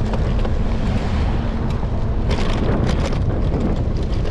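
Wind buffeting a handlebar-mounted camera microphone on a moving electric scooter: a loud, steady rumble with scattered short clicks and rattles, thickest a little past halfway.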